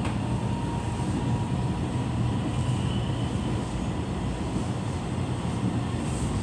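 Steady running noise inside a moving passenger train: a low rumble of wheels on rail with a faint steady whine.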